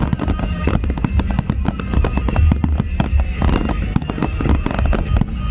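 Fireworks display: a dense, continuous run of bangs and crackles from aerial shells and comets, with music playing underneath.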